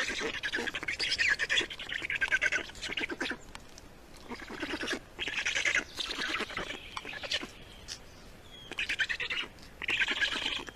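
A small bird calling in bursts of rapid, pulsing notes, with short pauses between the bursts.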